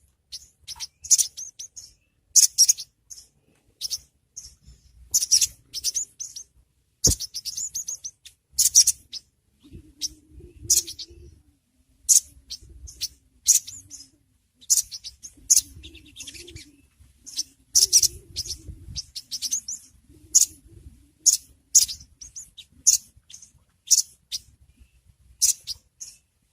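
Sogon sunbird (sogok ontong) giving short, high, sharp chirps over and over, each a quick cluster of notes, as used in a lure recording of a female calling to a male. A single sharp click sounds about seven seconds in, and a faint low hum runs through the middle.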